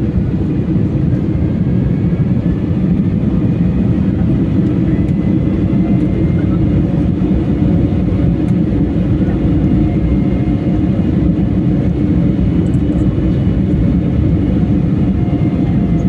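Steady engine and airflow noise of a passenger airliner, heard from inside the cabin, with faint whining tones above the low, even noise.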